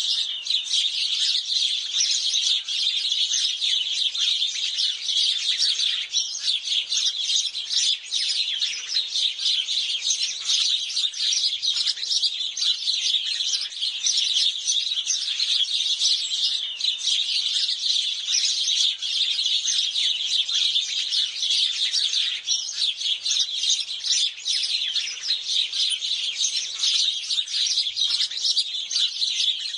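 A flock of house sparrows chirping, a dense, continuous chatter of many short overlapping chirps.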